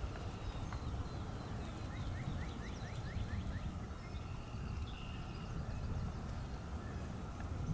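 Wild turkey gobbling, a rapid run of notes about two seconds in, over a steady low rumble of wind on the microphone.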